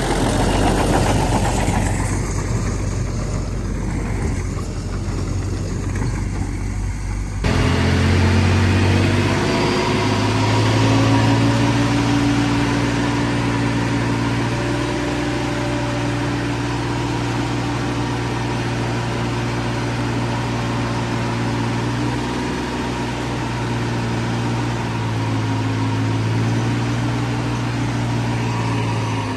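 Heavy construction machine engines running steadily. About seven seconds in the sound changes abruptly to a steady engine note with a clear low pitch, which holds from then on.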